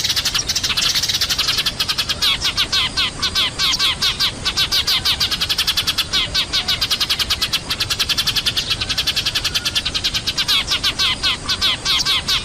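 Eurasian tree sparrows chirping noisily, a dense, unbroken stream of rapid short chirps from a flock. This is a recorded sparrow lure call, played to draw sparrows down.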